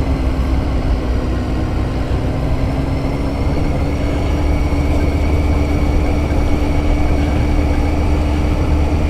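Motorcycle engine held in first gear, revving high on a steep descent with engine braking; its pitch is steady and rises slightly. There is a strong low rumble of wind and road underneath.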